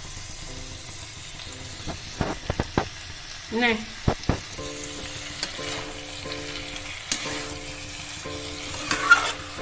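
Cauliflower, potato and carrot sizzling in oil and masala in a steel kadai as a metal spatula stirs them, with a steady frying hiss. Sharp clicks of the spatula knocking and scraping the pan come around two to three seconds in and again at about four seconds.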